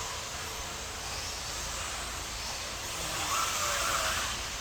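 A pack of radio-controlled mini truggies racing on the track, a steady whine of small motors and tyres that swells about three seconds in.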